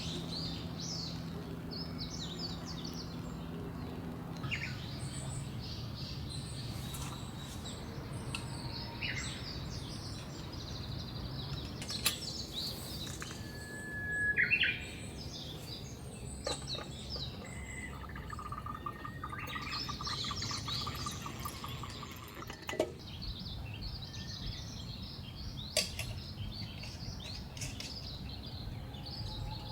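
Wild songbirds chirping and calling, many short high notes scattered throughout, over a steady low background hiss, with a few sharp clicks.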